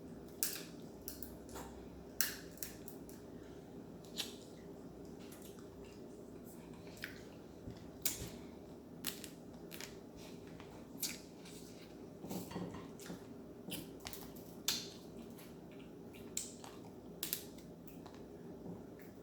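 Mukbang eating sounds: shellfish shells cracking and snapping with sharp, irregular clicks, along with chewing, over a steady low hum.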